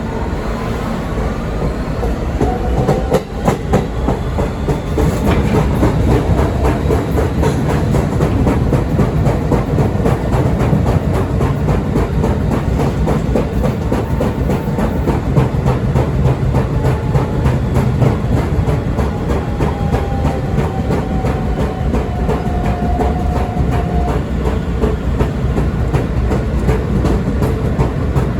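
R160B Siemens subway train running between stations, its wheels clattering over the rail joints. It gets louder over the first few seconds as the train picks up speed.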